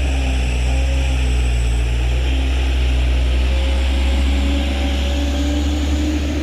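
Heavy diesel truck engine running steadily with a deep drone, its pitch creeping slightly higher in the second half.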